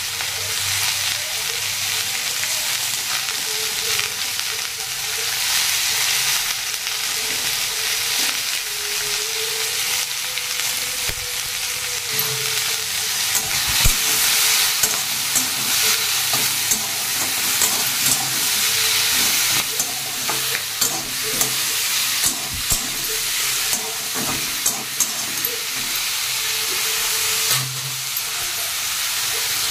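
Malabar spinach stems and leaves with potato pieces sizzling in oil in a steel kadai, being stir-fried with salt and turmeric. A spatula scrapes and knocks against the pan, more often from about halfway through.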